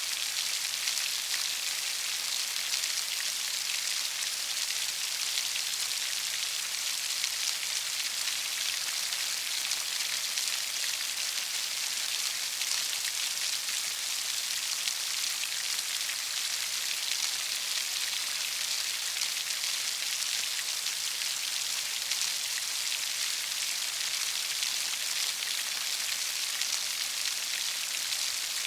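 Heavy rain falling steadily: a dense, even hiss of drops, with no change in strength.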